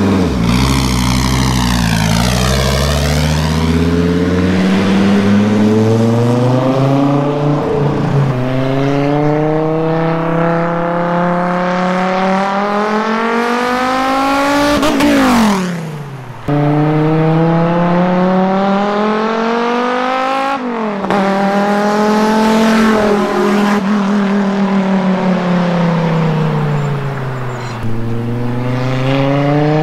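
Turbocharged VW 07K 2.5-litre five-cylinder engine in a swapped Porsche 944, revved hard through the gears on a test drive. The engine note climbs again and again with each pull and drops steeply as the car goes past.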